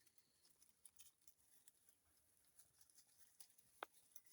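Near silence: faint scattered light ticks and rustles, with one sharper click a little before the end.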